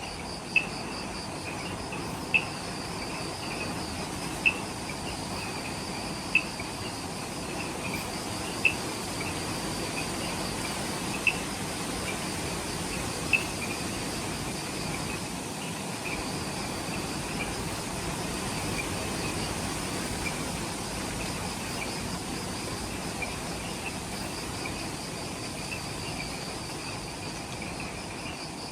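Night insects calling in a subtropical forest at dusk: a steady, fast-pulsing high trill, with a short sharp chirp repeating about every two seconds through the first half, over a low background hum.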